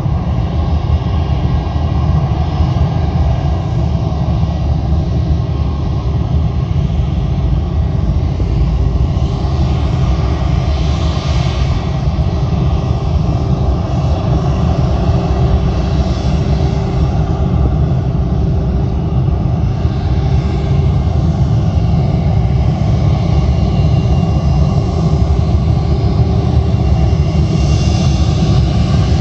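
Jet airliner engines running, a loud, steady, low rumble with a faint hum above it and a slight hiss that swells a little now and then.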